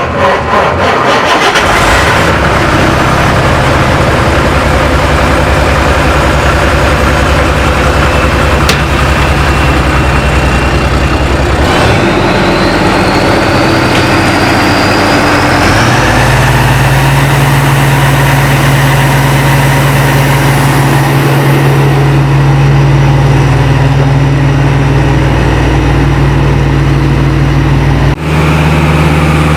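Diesel engine on a vacuum excavation truck cranking and catching, then running steadily at idle. About halfway through, a rising whine comes in and the engine note shifts and settles, and the sound changes abruptly near the end.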